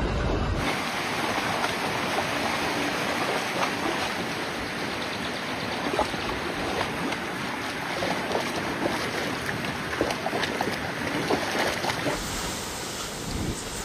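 Floodwater rushing and splashing in a steady hiss, dotted with many small sharp splashes. The sound changes abruptly about a second in and again near the end.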